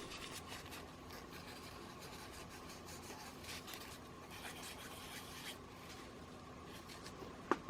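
Faint scratchy rubbing as excess isopropyl alcohol is wiped off the end of a 21700 lithium-ion cell, with a single sharp click near the end.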